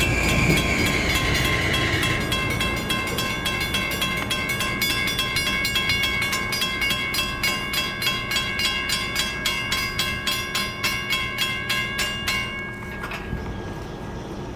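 A passing train, its wheels clicking over the rail joints in a regular rhythm that quickens, with steady high ringing tones over it. Both stop about twelve seconds in.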